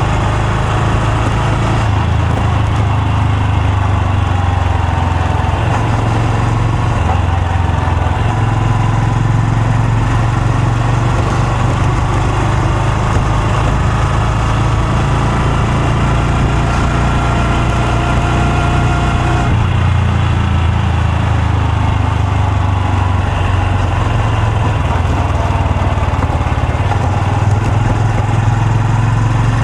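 Honda Super Cub C125's air-cooled single-cylinder engine and exhaust running steadily, its note changing a couple of times, about 7 and 20 seconds in.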